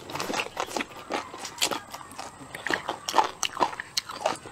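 Close-miked chewing of boneless duck feet, a run of irregular crunchy clicks from the tendon and cartilage as they are bitten through.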